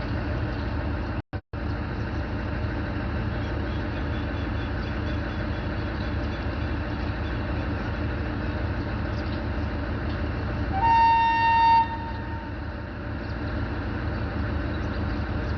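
WDM3A diesel-electric locomotive running under way, a steady low rumble. Near the end a horn sounds once, a single pitched blast of about a second, the loudest thing here. The sound cuts out twice very briefly about a second in.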